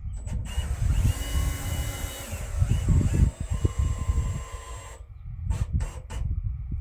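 Woodland Mills HM126 bandsaw mill running on its three-phase electric motor: a steady high whine and hiss that starts about half a second in and cuts off abruptly about five seconds in. A few sharp clicks follow near the end.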